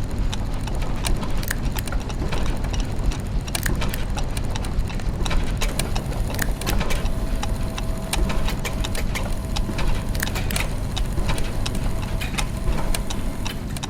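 Clockwork and gear mechanisms ticking and clicking in an irregular overlapping patter over a steady low mechanical hum. A faint steady tone joins about halfway through.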